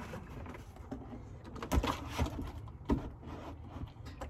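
A few clunks and knocks of dishes and a water container being handled and set down, three of them louder, around the middle.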